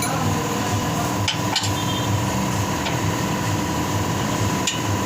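A few sharp metallic clinks over a steady droning hum.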